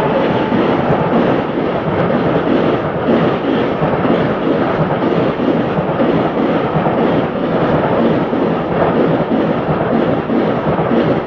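Indian Railways train passing over the tracks: a loud, steady running noise of wheels on the rails.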